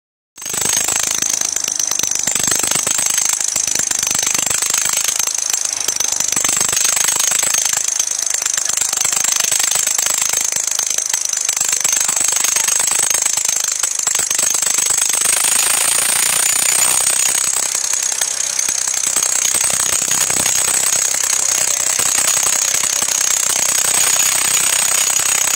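Tractor diesel engines running flat out under heavy load in a tractor tug-of-war, a loud, rough, distorted rattling din with a steady high-pitched whine over it.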